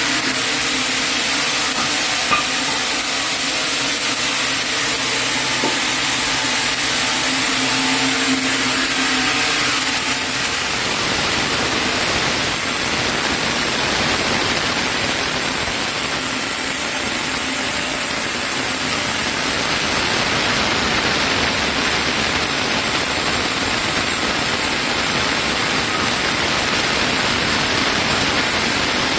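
Sawmill saw machinery running: a steady motor hum with a rushing noise for about the first ten seconds, then a loud, even rushing noise with no hum.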